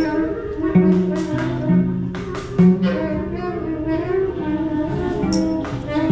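Free group improvisation on mixed instruments: several held pitched notes and melodic lines overlapping, with a few scattered percussive hits.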